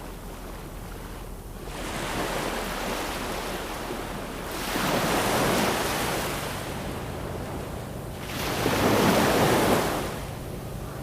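Ocean waves breaking and washing onto a shore, three swells rising and falling, the last two loudest.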